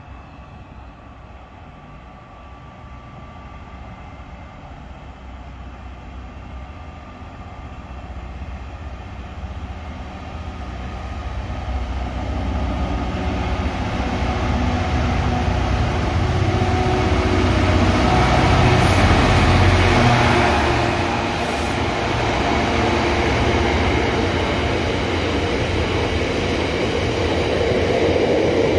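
Freight train approaching and passing, its rumble growing steadily louder and loudest about two-thirds of the way through. Near the end, a long rake of heavy biomass hopper wagons rolls past with a steady rumble.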